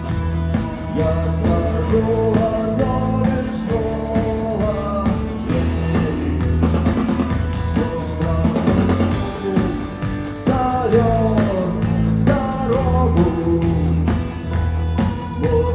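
Rock music: a drum kit and bass guitar keep a steady beat under a moving lead melody.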